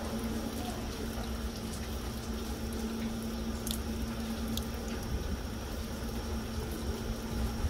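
Steady light rain falling on leaves and wooden tables, an even hiss with scattered small drips. A low steady hum runs underneath.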